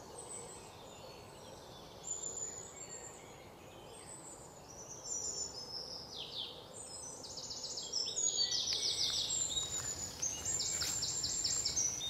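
Birds calling: high chirps and rapid trills, sparse at first and louder and more frequent from about halfway through, over a faint outdoor hiss.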